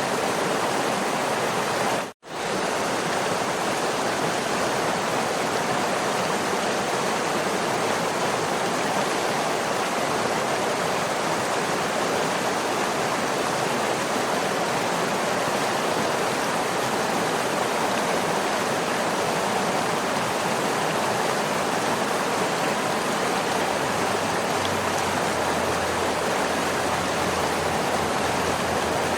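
Waterfall: a steady, even rush of falling water, which cuts out for a split second about two seconds in and then resumes.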